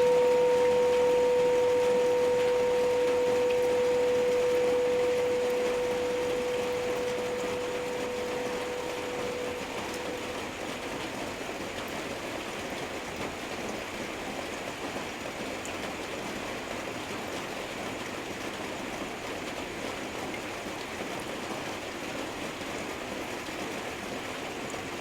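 A Tibetan singing bowl's ringing tone slowly dies away over about the first ten seconds, over a steady hiss of heavy rain; after that, rain alone.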